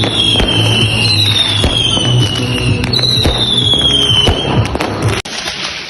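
Fireworks and firecrackers going off in rapid cracks and bangs, with three whistles that each fall in pitch over about a second, over background music; the sound cuts off abruptly about five seconds in.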